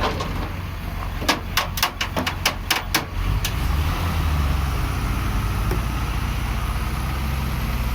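Heavy diesel vehicle engine running low and steady, getting louder about three and a half seconds in. Between one and three seconds in there is a quick run of about eight sharp knocks.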